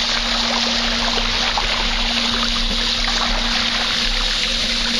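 Trek 820 mountain bike's tyres churning through standing water several inches deep, a steady splashing and trickling with many small crackly drips.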